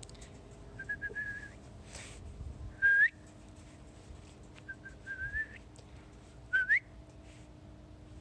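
Someone whistling clear notes in two similar phrases: a few short, evenly pitched notes followed by a loud, quick rising whistle.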